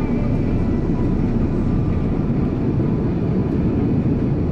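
Steady cabin noise of an Airbus A330-300 airliner: an even low rumble of engines and airflow, with faint thin tones above it.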